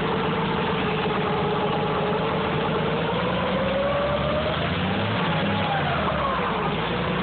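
Farmall 460 tractor engine running after a hard cold start, with its pitch rising a little about four seconds in and falling back near the end.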